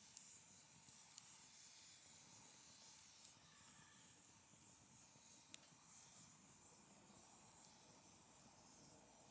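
Faint wood fire burning in a folding fire pit: a soft steady hiss with a few sharp crackles, one about a second in and another a little past halfway.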